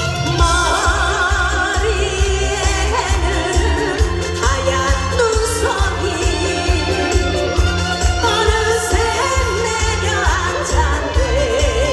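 A singer performing a trot song live over a loud backing track with a steady bass beat; the voice holds long notes with a marked vibrato.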